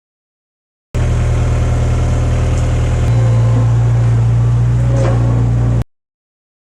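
Skid steer engine running steadily, with a low, even drone. About two seconds after it starts, the drone shifts in pitch and gets a little louder, as if revved or put under hydraulic load. It begins and ends abruptly.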